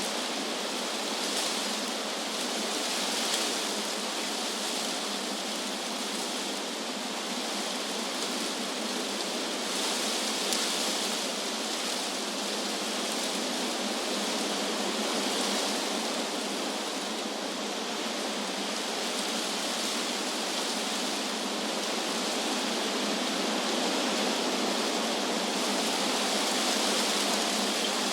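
Wind blowing through trees: a steady rustling hiss of leaves, swelling and easing gently every few seconds.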